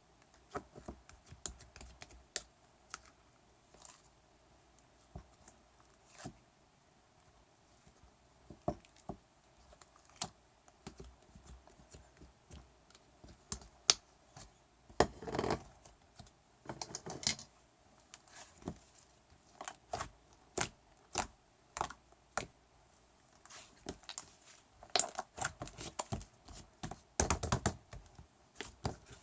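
Slime being worked by hand: irregular sticky clicks and pops, with a few longer squelches around the middle and near the end.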